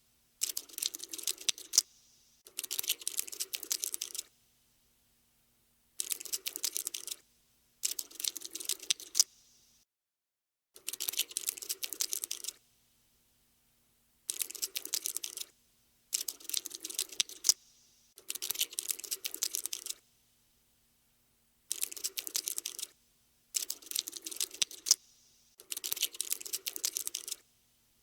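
Insect-scuttling sound effect for a cartoon cockroach: about eleven bursts of fast, dry clicking and skittering, each a second or two long, with short silent pauses between them.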